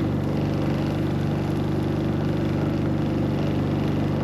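An engine running steadily at a constant idle.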